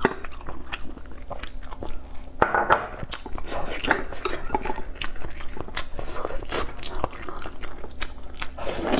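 Chewing of cooked whelk meat, mixed with many short clicks and knocks as the hard shells are handled and touch each other and the bowl.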